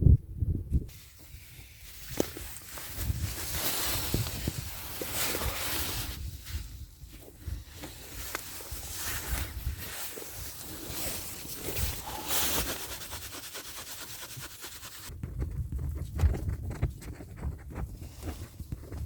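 Wind gusting across an open winter mountainside, a steady hiss that swells and fades in gusts. About fifteen seconds in it drops away to irregular low knocks and rustles of movement close to the microphone.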